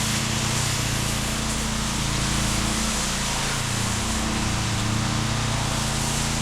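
Petrol-engine pressure washer running steadily, with the even hiss of its wand spraying water mixed with downstream-injected cleaning solution.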